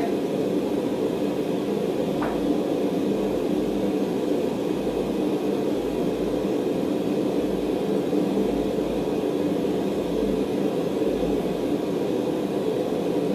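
Blacksmith's forge running with a steady rushing noise while a mild steel bar heats in it. A faint click about two seconds in.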